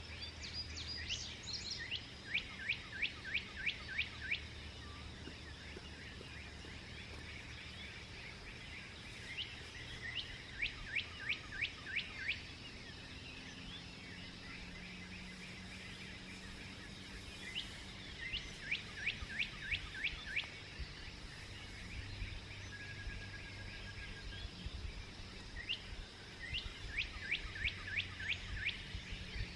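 A songbird singing the same phrase four times, about every eight seconds: a few high opening notes, then a quick run of about eight sharp, evenly spaced down-slurred notes. A steady low background rumble runs underneath.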